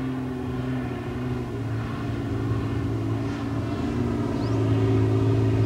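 Mitsubishi Shogun's engine running steadily under load as the 4x4 climbs a soft-sand slope, getting a little louder in the second half.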